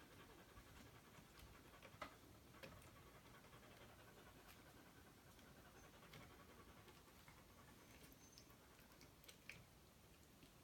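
A tiny 4-lb poodle panting faintly and quickly, with a few soft clicks, about 2 seconds in and again near the end.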